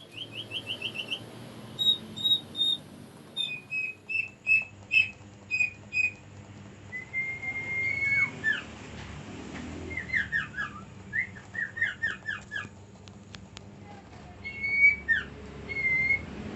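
Common iora (cipoh) whistling and chirping. It opens with a quick run of short notes, then gives evenly spaced whistled notes and one longer drawn-out whistle, then a rapid series of falling notes.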